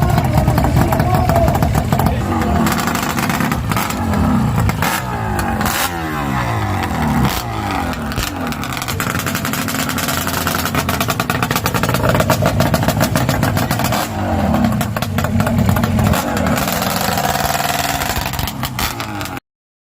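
Yamaha RD400 Daytona Special's two-stroke parallel-twin engine running and being revved, its pitch rising and falling several times. The sound cuts off suddenly near the end.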